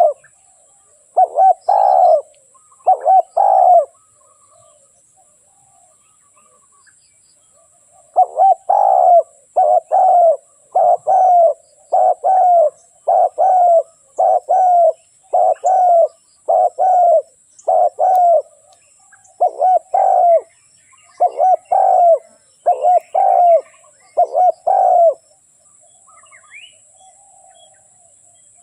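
A spotted dove cooing, repeating its soft, bending coo notes in quick pairs. A few notes come near the start, then there is a pause of about four seconds, then a long steady run of coos that stops a few seconds before the end.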